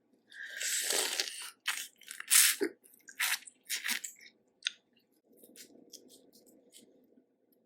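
Close-miked eating of a Cajun crawfish boil: a run of sharp cracks and crunches, the loudest about two and a half seconds in, then softer chewing.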